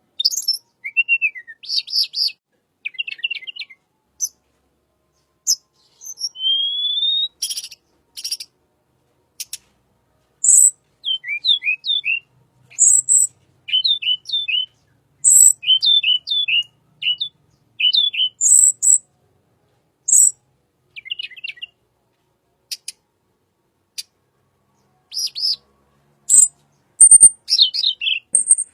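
Tledekan bird singing: sharp high chirps and clicks mixed with runs of quick down-slurred whistled notes, in bursts separated by short pauses. One rising whistle comes about six seconds in.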